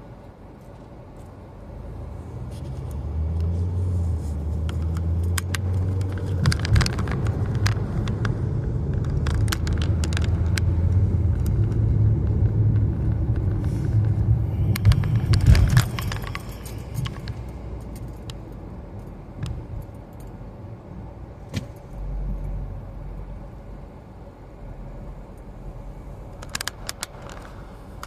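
Car driving, heard from inside the cabin: a low road and engine rumble builds over the first few seconds, stays loud, then drops off suddenly a little past halfway. Light rattles and clicks come and go, thickest while the rumble is loud.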